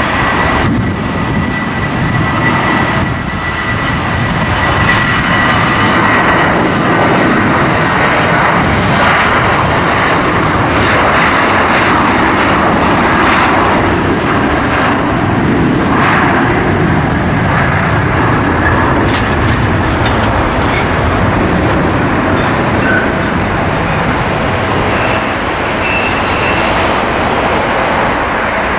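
Airliner engines running, a loud steady rush with a high whine in the first several seconds that fades out, mixed with wind buffeting the microphone.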